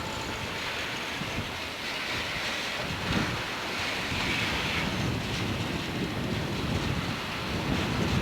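Steady rushing rumble of a freight train rolling past, mixed with wind buffeting the camcorder microphone.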